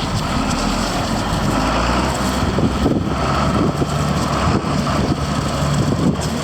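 John Deere 4630 tractor's six-cylinder diesel engine running.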